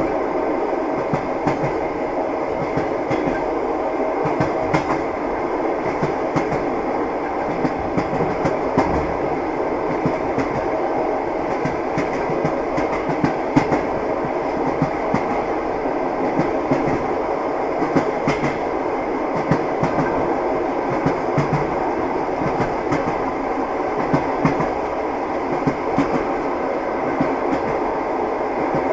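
Train wheels clattering over the rail joints: a steady rumble of a moving railway car with frequent clicks.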